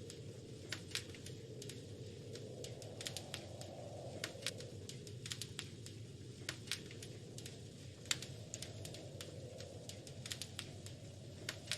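Wood fire crackling in a fireplace: irregular sharp pops and snaps, several a second at times, over a low steady rush that swells and eases slowly.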